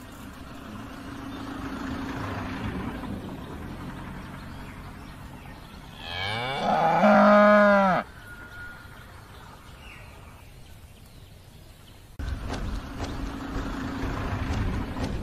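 A cow mooing: one long moo about halfway through, over steady background noise that gets louder suddenly near the end.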